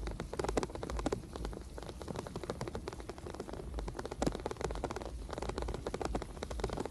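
Rain crackling irregularly on a camera on a moving bicycle, many sharp ticks a second over a steady low rumble of wind and riding.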